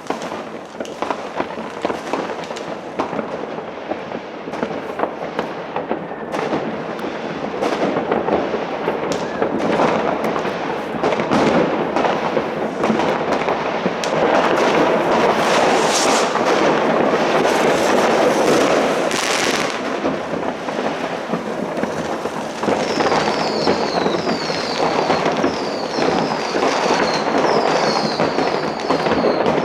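New Year's Eve fireworks going off all around without a break: many overlapping bangs, pops and crackling firecrackers. In the last several seconds a run of short, high falling whistles repeats about once a second.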